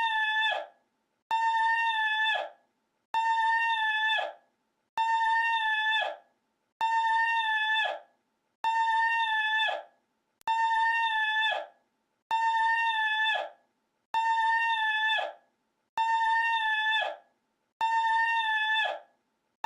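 The same short looped clip: one held, horn-like pitched call that stays level, then drops and cuts off. It repeats about every second and three-quarters with a gap of silence between, roughly eleven times.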